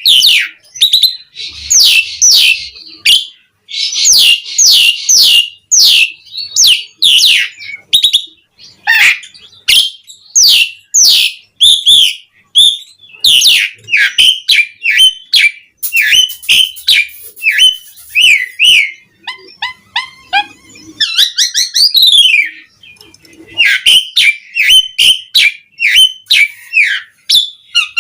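Pied starling (jalak suren) singing in a long, fast run of loud whistles, sharp downward-slurred notes and chattering phrases, a varied song with mimicked notes mixed in.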